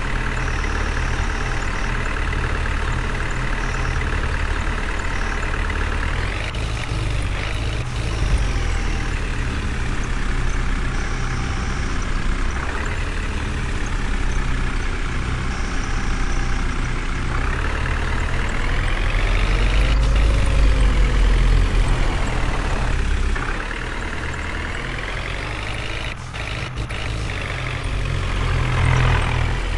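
Heavy vehicle engine running, revving up and dropping back several times, with a faint high beep coming and going in the first half.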